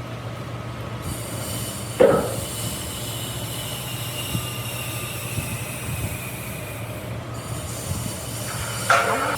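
Electric woodworking machine running with a steady motor hum as it works wood, with two short screeching squeals that fall in pitch, about two seconds in and near the end.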